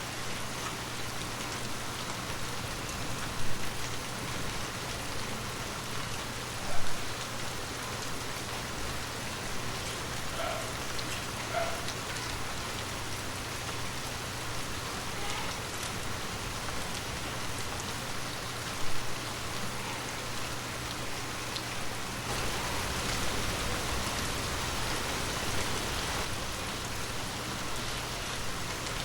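Heavy rain falling steadily, with three short, louder hits standing out. The rain swells heavier for several seconds in the last third.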